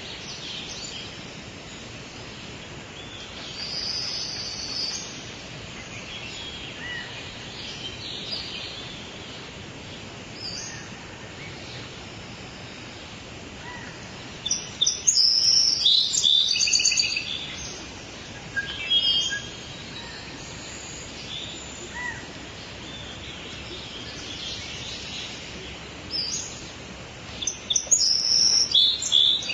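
Songbirds chirping and singing over a steady background hiss, with loud bouts of rapid chirping about halfway through and again near the end.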